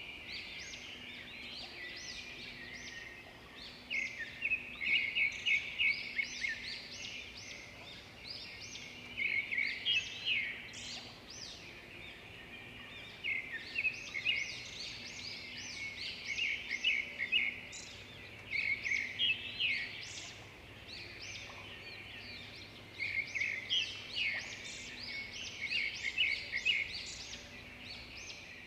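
Songbirds singing: bursts of rapid, high chirps and trills every few seconds, over a faint low hum.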